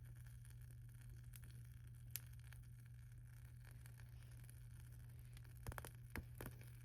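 Wood fire crackling faintly: scattered sharp pops, one about two seconds in and a cluster of several near the end, over a steady low hum.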